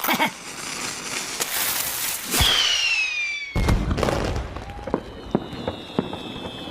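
Cartoon sound effects: a rushing hiss with a high whistle that falls in pitch, then a sudden deep burst about three and a half seconds in, followed by scattered sharp crackles.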